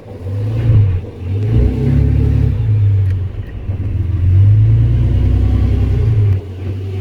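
Mega mud truck's engine revving in repeated surges, a deep note rising and falling as the truck is driven over rough trail.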